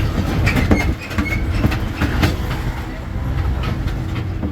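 Tourist road train running on the street: a steady low rumble from the tractor unit and wheels, with repeated knocks and rattles from the towed passenger carriages.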